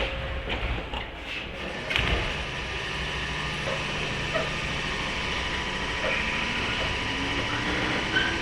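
JR 103-series electric train car heard from on board: a few clicks and a thump about two seconds in, then steady running noise. Near the end the MT55 traction motors start a whine that rises in pitch as the train picks up speed.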